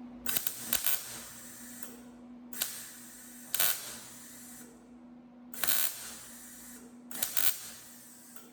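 MIG welder tacking a 20-gauge steel patch panel with .035 wire: four crackling bursts of about one to two seconds each, with a steady low hum between them.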